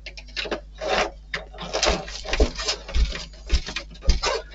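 Model kit parts being handled and fitted: an irregular run of rubs, scrapes, clicks and light knocks, a few with a dull thud.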